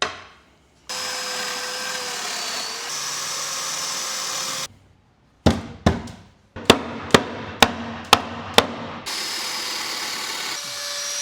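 Workshop assembly sounds in quick cuts: a power tool running steadily, then about seven sharp knocks on wood, roughly two a second, like a hammer or mallet tapping a cabinet joint home, then the power tool running again.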